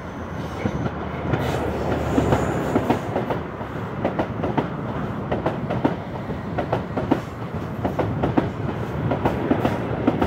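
High Speed Train (InterCity 125) passing beneath: a low diesel rumble from the class 43 power car at first, then the coaches' wheels clicking rapidly over rail joints and pointwork.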